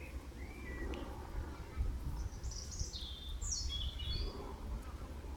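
A bird calling: a couple of faint short chirps, then a brighter run of high, falling chirps about two to four seconds in.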